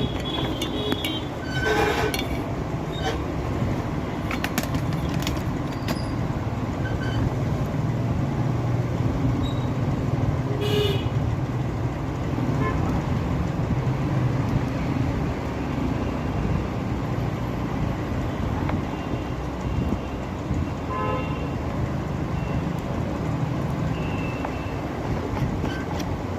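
Steady low rumble of road traffic, with a few short horn toots at about 2, 11 and 21 seconds.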